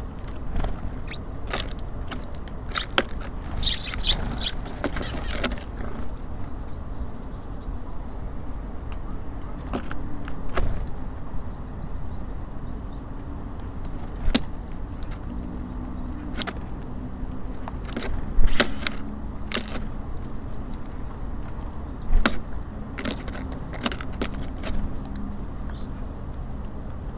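Small birds at a bird feeder: irregular sharp taps and clicks of beaks pecking seed and feet landing on the feeder, with a cluster of quick taps a few seconds in and more toward the end. A steady low traffic rumble runs underneath.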